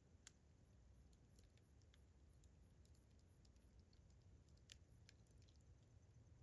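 Campfire crackling faintly: scattered sharp pops and snaps from the burning wood, the loudest about three-quarters of the way through, over a low steady rumble. Crickets chirp in repeated high pulses behind it.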